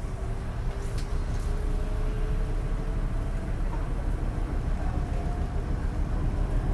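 MTR East Rail Line Hyundai Rotem EMU running, heard from inside the car: a steady low rumble with faint motor whine tones drifting slightly in pitch.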